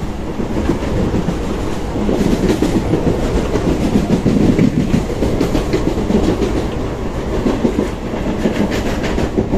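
Electric suburban local train (EMU) running, heard from aboard a coach: a steady rumble with the wheels clacking over rail joints, growing louder about two seconds in.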